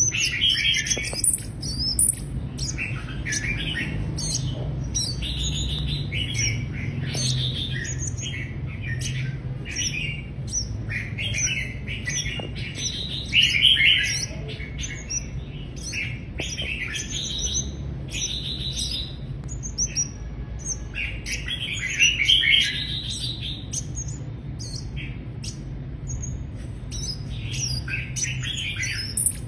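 Mrs. Gould's sunbird calling: short, high chirps and twittering phrases, repeated throughout, loudest about halfway through and again about three-quarters through, over a steady low background rumble.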